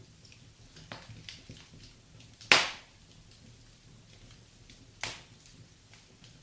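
Wood fire crackling with faint scattered ticks, broken by a loud sharp pop about two and a half seconds in and a smaller pop about five seconds in.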